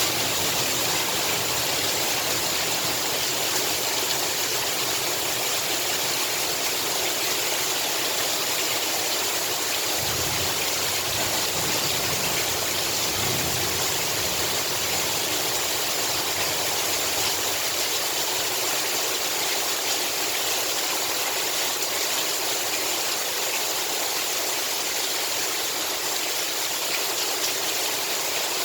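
Heavy rain pouring steadily in an even hiss, with a faint low rumble swelling briefly about ten to fourteen seconds in.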